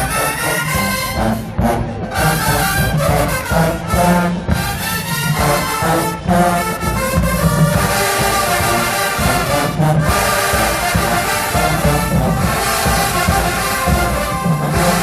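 HBCU marching band playing loud, continuous brass music, trombones and trumpets over a heavy low brass and drum bottom.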